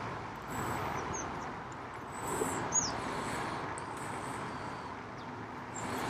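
Steady outdoor background noise with a few short, high bird chirps, one about a second in and a slightly louder, falling one near three seconds.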